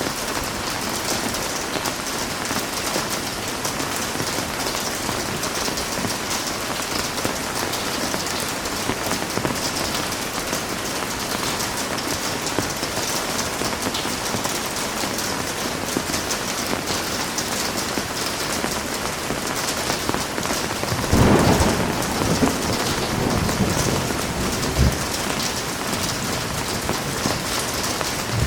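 Heavy rain falling steadily. About three-quarters of the way in, thunder rumbles low for a couple of seconds, followed shortly by one short, sharp clap.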